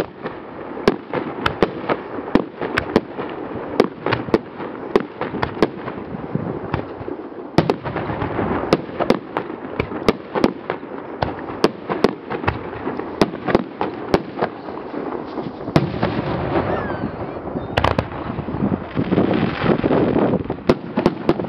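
Aerial fireworks barrage at its climax: many sharp bangs, often several a second, over a continuous din of bursting shells.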